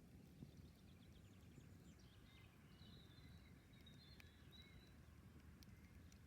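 Faint campfire crackling, a few scattered sharp pops over a low rumble, with a bird chirping and trilling faintly in the background.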